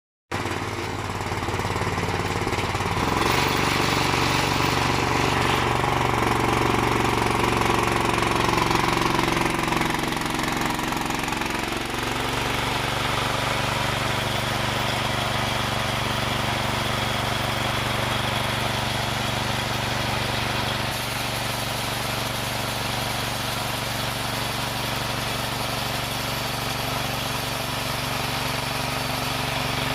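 Motor-driven wood saw running continuously with a rough, chattering tone; its pitch wavers and shifts over the first dozen seconds, then settles and holds steady.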